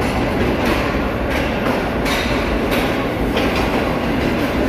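Pakistan Railways Green Line Express passenger coaches rolling past along the platform: a steady rumble of wheels on rail, with a clack about every second as the wheels cross rail joints.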